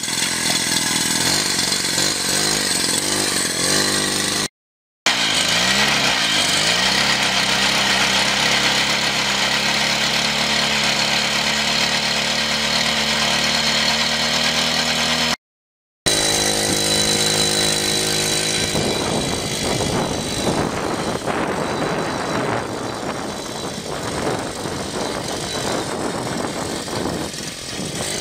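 Pocket bike's small engine running, its pitch swinging up and down with the throttle about five seconds in, then holding steady. The sound breaks off twice for a moment, and in the last part it turns rougher and more uneven.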